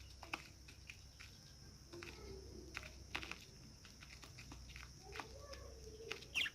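Pet budgerigars giving a few short, faint chirps among scattered light clicks and taps, the sharpest chirp near the end.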